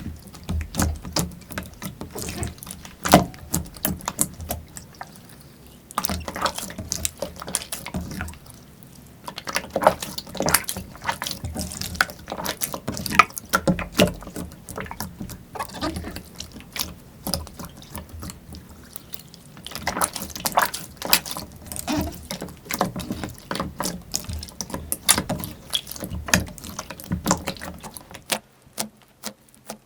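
Slime being squished and worked by hand: a dense run of irregular wet, sticky crackles and pops, thinning to a few separate clicks near the end.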